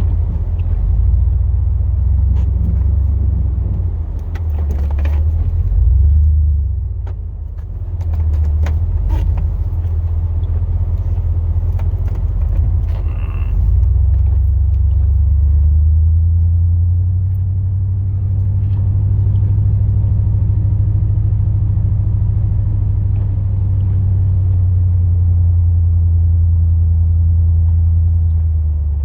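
A 2002 Chevrolet Silverado plow truck's 8.1-litre big-block V8 runs with a steady low rumble while driving. There are a few scattered clicks and knocks in the first several seconds.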